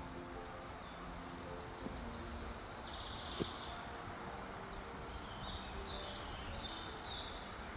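Wild birds chirping and whistling over a steady background hiss, with short high calls clustered in the second half and one sharp click about three and a half seconds in.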